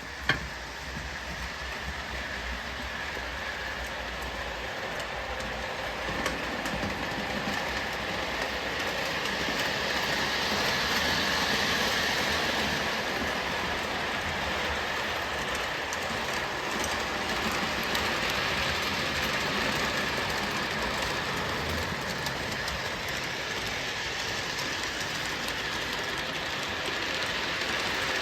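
O gauge model train, a Williams by Bachmann FM Trainmaster diesel pulling box cars, running around the track: a steady rolling rattle with wheel clicks over the rail joints, growing louder and fading as it passes close, with one sharp click right at the start.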